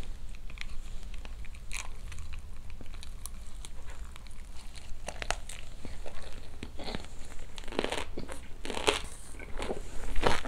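Close-miked chewing of an overfull mouthful of bossam wrap, salted napa cabbage around boiled pork and kimchi, with wet crunching and clicking that grows denser in the second half. A paper napkin rustles near the end.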